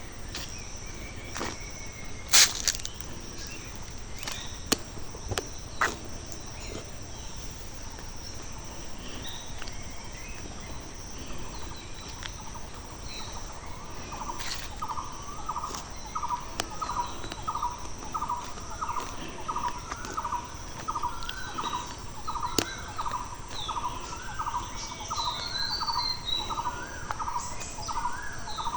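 Rural outdoor ambience: a steady high-pitched insect drone with scattered bird chirps. From about halfway through, a bird repeats a short call about twice a second. A few sharp clicks come in the first few seconds.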